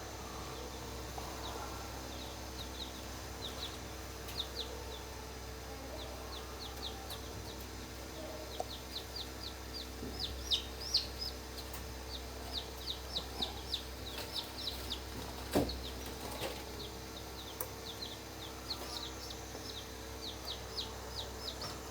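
Newly hatched chicks peeping: runs of short, high cheeps, busiest around the middle, over a steady low hum. A single knock comes about halfway through.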